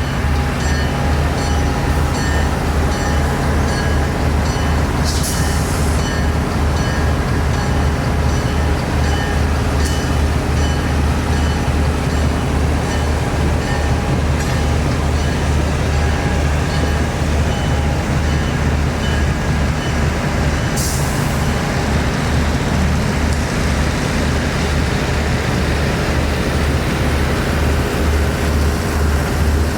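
Diesel locomotive engine running steadily with a deep, even hum. A short hiss of released air is heard twice.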